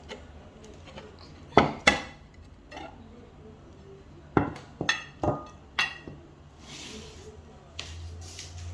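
A bowl and the plate covering it knock and clink together as marinated chicken pieces are shaken inside. There are two sharp clatters about a second and a half in, then a group of four more between about four and six seconds, each ringing briefly.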